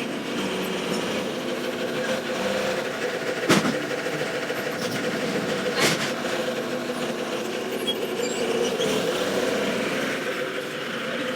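Steady drone of a running lorry engine, with two sharp knocks about two and a half seconds apart.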